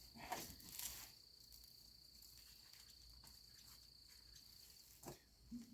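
Near silence, with a faint steady high-pitched tone that stops near the end and a couple of faint brief handling sounds in the first second.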